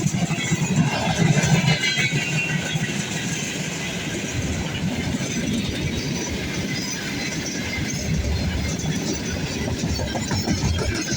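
Container train rolling past, its wheels clattering over the rail joints in a steady, loud rush of rail noise.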